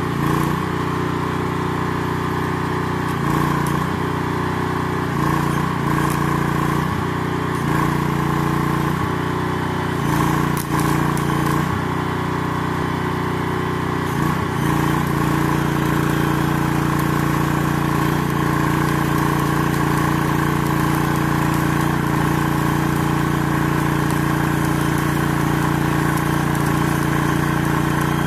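Diesel engine of an 8-ton-class mini excavator running, its note dipping and recovering again and again for the first half as the hydraulics take load, then settling to a steady run. A short knock about ten seconds in.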